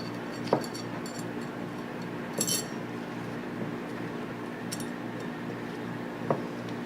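Small steel parts of a Tokarev TT-33 pistol clinking and tapping as they are handled and fitted during reassembly: a handful of separate sharp clicks and light metallic clinks over a steady low hum.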